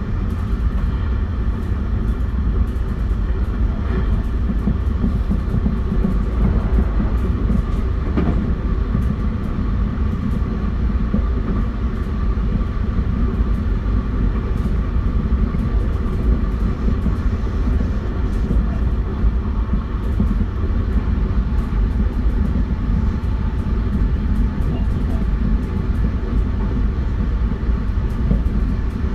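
Running sound of a JR West 271 series electric multiple unit with Hitachi SiC inverters, travelling at a steady speed: a heavy, even rumble of wheels on rail with steady faint tones over it and scattered light clicks.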